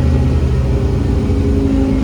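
Scania N270UD OmniCity double-decker bus's five-cylinder diesel engine running under way, heard from inside the bus, with one tone rising gently in pitch from about half a second in.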